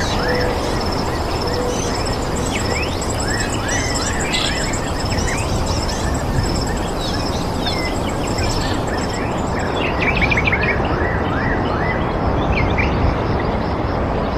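Many small birds chirping and trilling over a steady rushing noise.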